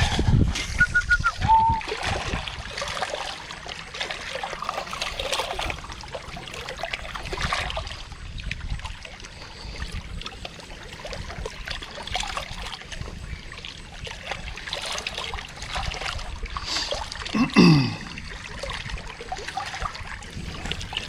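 Water trickling and splashing close to the microphone, irregular and continuous. A short high chirp sounds about a second in, and a brief louder sound falling in pitch comes near the end.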